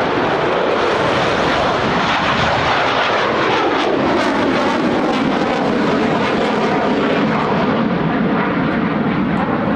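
Lockheed Martin F-35A fighter's single Pratt & Whitney F135 jet engine at full power on takeoff for a high-rate climb. The jet noise is loud and steady, and its pitch falls about three seconds in.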